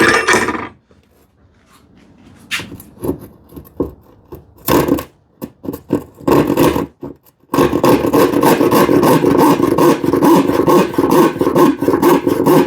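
A knock and some handling of the workpiece, then, from a little past halfway, a 10 TPI hand saw filed rip pattern cutting through plywood in quick, even back-and-forth strokes.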